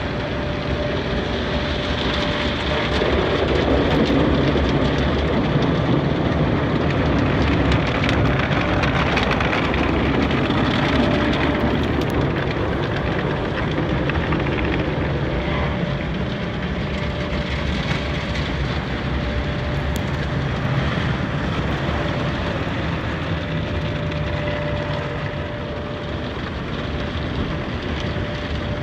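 Automatic car wash running: a steady rushing of water spray and machinery, with a faint steady whine that comes and goes.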